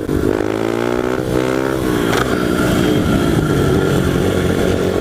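Honda XR100 pit bike's single-cylinder four-stroke engine, fitted with a loud FMF exhaust, running under way. Its pitch climbs over the first second and holds, then it runs steadily after a short knock about two seconds in.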